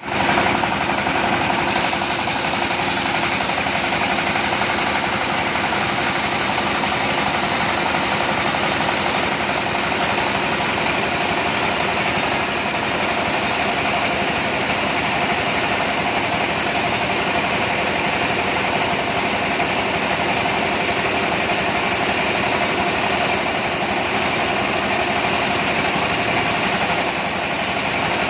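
Cassava starch and pulp separator machine running steadily, a loud continuous mechanical noise with a steady hum.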